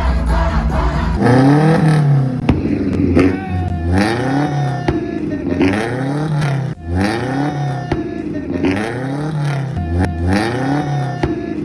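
Chevette's four-cylinder engine through a sport muffler, revved hard over and over, about once a second, its pitch rising and falling with each blip, with sharp pops from the exhaust between revs.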